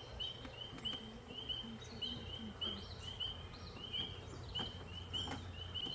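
Steady chirping: short, high chirps repeated evenly about three times a second, over a faint low hum.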